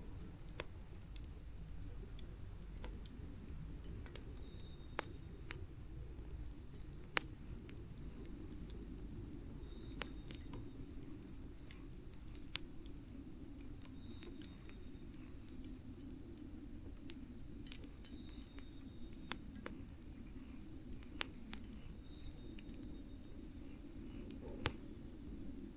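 Wood campfire burning: a steady low rush of flame with sharp crackles and pops at irregular intervals, the loudest pops about 7 and 19 seconds in.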